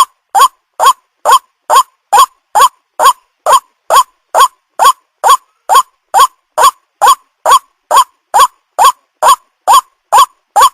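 White-breasted waterhen (ruak-ruak) giving its monotonous call: short, loud, rising notes repeated at an even pace of about two a second, as used to lure the bird in.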